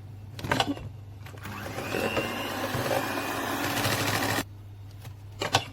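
Electric mixer beating softened butter until creamy, running for about three seconds from about a second and a half in and then cutting off. There is a sharp knock shortly before it starts and another near the end.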